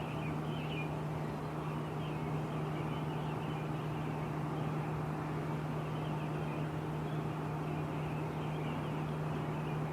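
Early-morning birdsong: faint chirps and short calls over a steady low hum and the wash of distant traffic.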